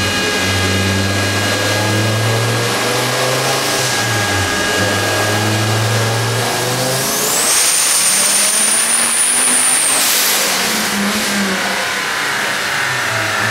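Twin-turbocharged Dodge Viper V10 running under load. About seven seconds in a high turbo whistle rises, holds for about three seconds, then cuts off suddenly.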